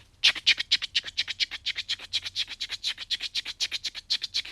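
A person imitating a train with the mouth: a rapid, even 'ch-ch-ch' chugging of hissing puffs, about ten a second.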